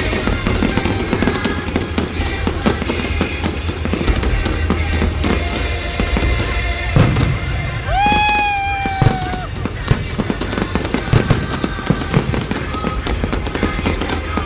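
Salute fireworks bursting: a rapid, irregular run of bangs and crackles, with a loud bang about seven seconds in, over music playing throughout.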